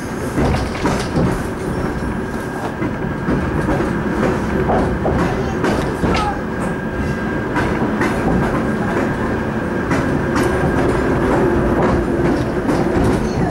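Suburban train running, heard from inside the carriage: a steady rumble with wheels clicking over rail joints.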